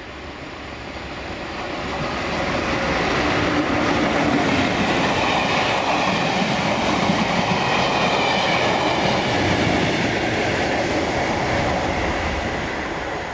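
Network Rail test train top-and-tailed by two English Electric Class 37 diesel locomotives passing at speed. The engine and wheel noise builds over the first few seconds, holds as the coaches rush by, and fades near the end.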